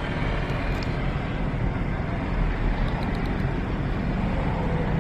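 Steady city street traffic: car engines and road noise, with no single vehicle standing out.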